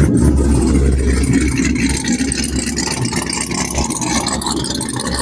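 A car engine running loud with a deep low rumble, heaviest for the first couple of seconds and then easing slightly.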